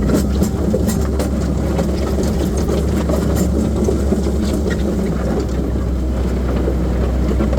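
Skid steer loader's engine running steadily, with frequent short clanks and rattles scattered through it.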